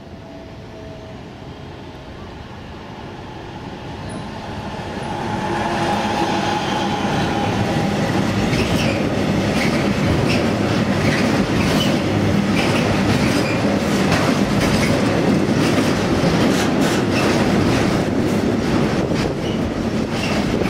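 Freight train approaching and then passing close by. The wagons' rumble builds over the first few seconds and then holds loud, with rapid clicking as the wheels cross rail joints and a little wheel squeal.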